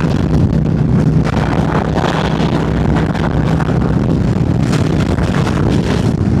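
Harley-Davidson V-twin with a 131 cubic inch engine and Screaming Eagle cam, running steadily at road speed, with wind rushing over the microphone.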